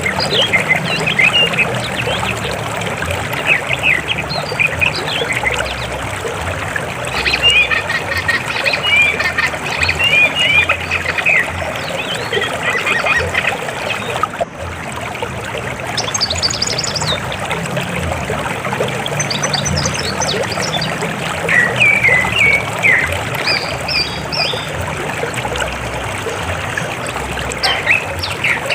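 River water flowing steadily, with clusters of short, high chirping animal calls over it throughout.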